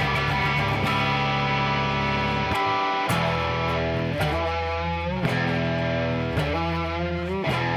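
Band playing an instrumental break: distorted electric guitar over bass and drums, with notes that slide up and down in pitch. The bass drops out briefly about two and a half seconds in.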